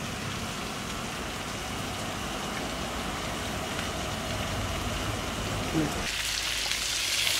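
Whole chicken frying in ghee in a large kadai over a gas burner: a steady sizzle over a low rumble. About six seconds in, the sizzling turns suddenly louder and brighter, heard close up.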